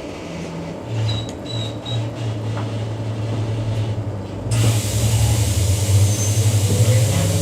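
Queensland Rail EMU electric train pulling away from a station. A low electric traction hum comes in about a second in and grows louder. A sudden rush of running noise joins about halfway through, and the motor whine starts to rise in pitch near the end as the train gathers speed.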